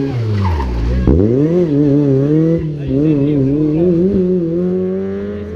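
Rally car engine slowing down as the revs fall, then accelerating hard about a second in, with the revs climbing quickly. It then holds at high revs with small rises and dips as the driver works the throttle.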